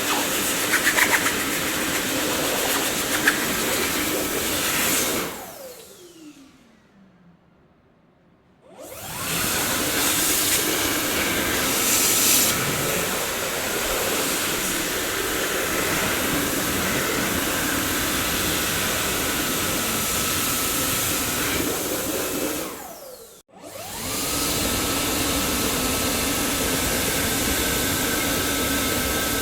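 Dyson vacuum cleaner motor running with a steady whooshing hum. About five seconds in it is switched off and its whine winds down in pitch to near silence. It starts up again about nine seconds in, and near the twenty-three-second mark it briefly cuts out and comes straight back, its whine rising and then holding a steady pitch.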